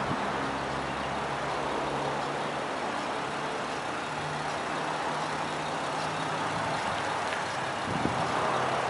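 A vehicle engine running steadily, with a low hum that fades in and out over a steady wash of outdoor road noise.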